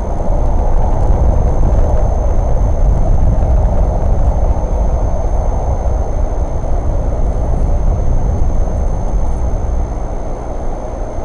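Steady low rumble of a running vehicle engine, unchanging throughout.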